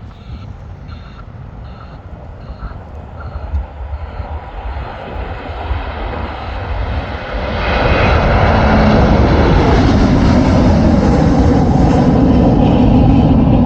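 Jet airliner's engines passing close: the noise swells from about five seconds in and stays at a loud, steady rushing level through the second half, with a low rumble underneath.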